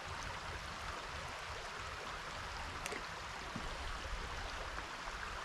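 Small stream running steadily over rocks, an even rushing, with a faint click about three seconds in.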